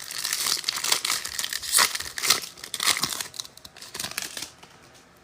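Foil trading-card pack wrapper being torn open and crinkled by hand: an irregular crackly rustle that dies away about four and a half seconds in.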